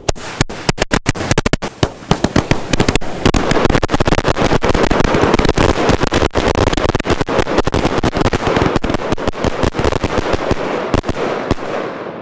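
Firework battery going off with crackling effects: a few sharp cracks right at the start, then a dense, continuous crackle that fades away near the end.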